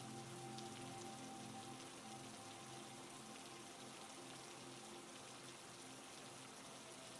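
Faint, steady recording of heavy rain: an even hiss of many drops. Under it, a few soft, low, sustained tones are held throughout.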